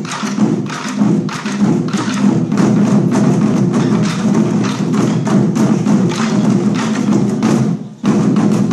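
Chinese war drums played by a school drum team: fast, dense strokes with heavy low booms, breaking off briefly near the end before loud strokes resume.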